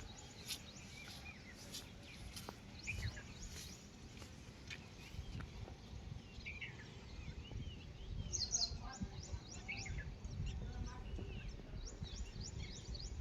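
Several birds chirping and calling in short, quick notes, busier in the second half, over a low steady rumble.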